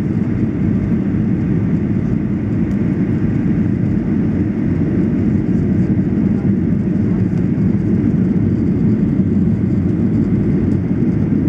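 Steady low cabin noise inside a Boeing 737-800 on approach: the drone of its CFM56-7B engines mixed with airflow over the fuselage, unchanging throughout.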